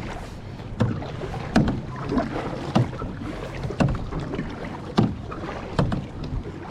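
Kayak paddling: the paddle blades dip and splash in the water, and now and then knock, in short sharp strokes roughly once a second.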